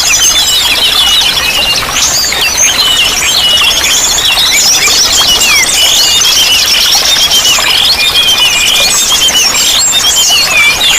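Dense chorus of many small songbirds chirping, trilling and whistling over one another without a break, over a steady rush of running water.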